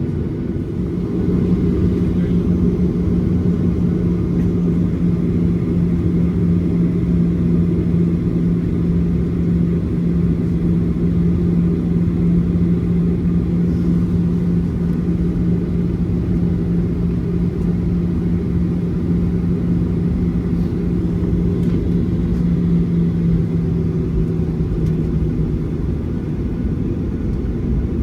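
Cabin noise inside a Boeing 737-800 with its CFM56 engines running: a steady low rumble with a constant hum, which fades out near the end.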